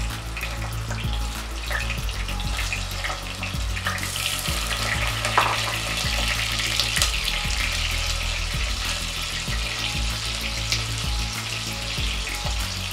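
Whole pointed gourds (parwal) sizzling and crackling as they fry in hot oil in a karai. The crackle grows louder about four seconds in, with an occasional sharper pop.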